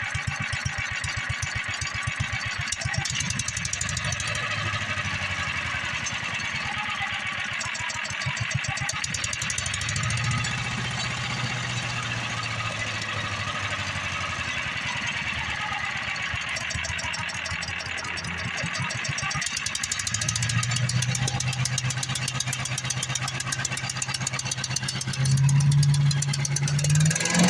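Small single-cylinder Predator gasoline engine on a wood chipper running, its speed rising and falling, then picking up and getting louder near the end.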